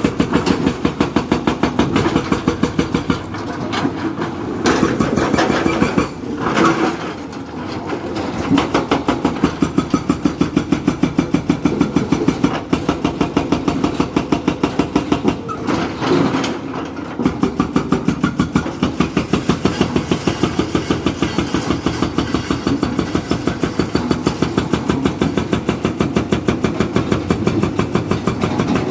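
Diesel engine of heavy construction machinery running, with a steady, even chugging that eases off and picks up again briefly twice.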